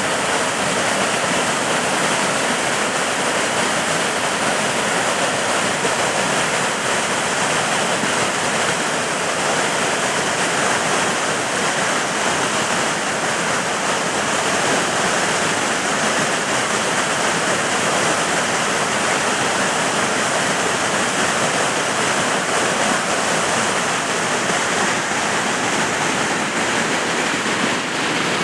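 Waterfall water rushing in a steady, unbroken wash of noise.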